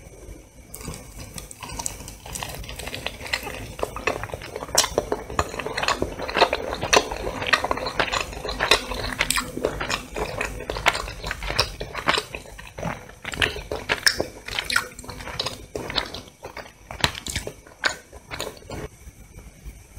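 Close-miked biting and chewing of a roast chicken drumstick, with many small irregular clicks that are densest in the middle and thin out near the end.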